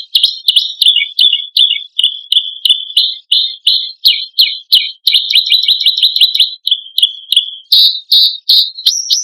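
Songbird training-track song: loud, sharp call notes repeated about twice a second, high-pitched, breaking into a fast rattling trill about six seconds in, the 'tembakan' and 'besetan' phrases of a competition songbird.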